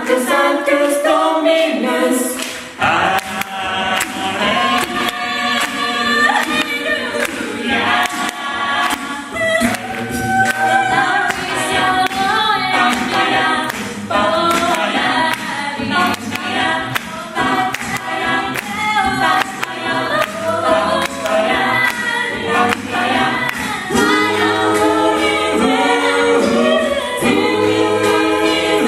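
An a cappella vocal group singing a gospel-style arrangement in close harmony, with a low bass voice moving under the chords.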